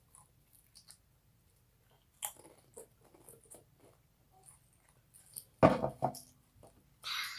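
Close-up crunching and chewing of chips: scattered small crisp crackles, then a loud crunch about five and a half seconds in.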